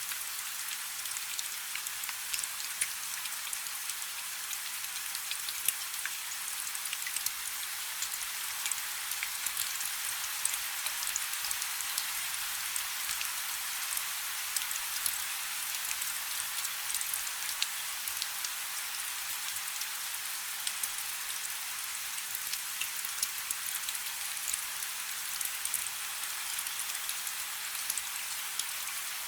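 Light rain falling steadily: an even hiss full of many small, quick drop ticks.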